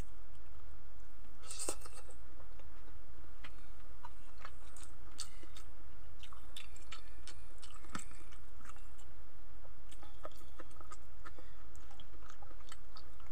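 A man chewing boiled vegetables close to the microphone: irregular soft wet clicks and small crunches, over a steady low hum.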